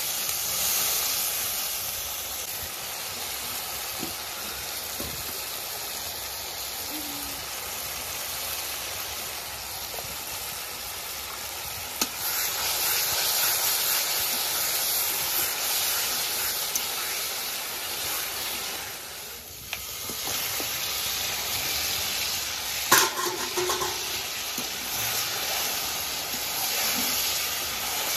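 Curry masala sizzling in an iron karahi as a metal spatula stirs and scrapes through it, a steady hiss with now and then a sharp knock of the spatula on the pan.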